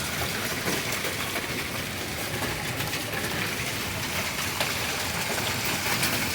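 Hail and rain falling: a steady hiss with scattered sharp ticks of hailstones striking.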